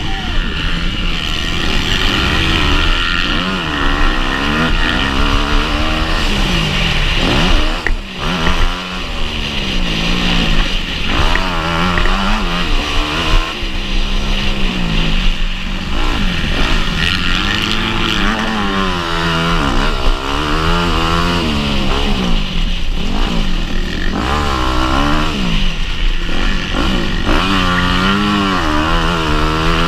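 Motocross bike engine under race load, revving up and falling back over and over as the throttle is opened and closed, with a brief drop about eight seconds in.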